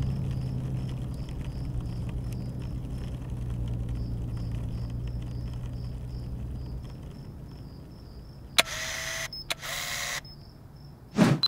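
A car engine running low and steady, fading away over several seconds, with a faint high ticking about three times a second above it. Near the end come two short bursts of hiss and a brief whoosh.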